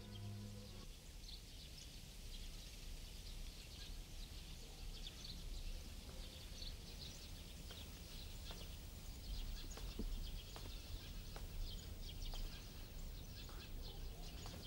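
Faint outdoor ambience with small birds chirping sparsely and a few light clicks; a held music chord cuts off about a second in.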